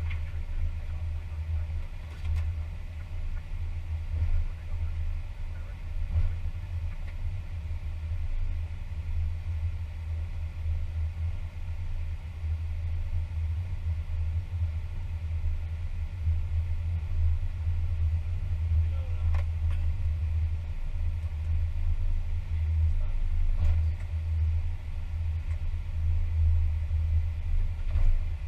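Steady low rumble of Airbus A320 cockpit noise on the ground after landing, with the engines at idle, and a few faint clicks.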